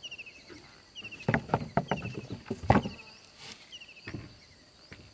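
A run of sharp knocks, about six in a second and a half, the loudest near the middle. Behind them a bird repeats a short falling string of chirps about once a second over a steady high tone.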